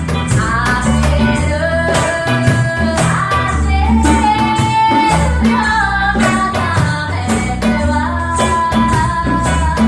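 Live band music in a reggae style: a woman singing a held melody over plucked strings, a pulsing bass line and steady percussion.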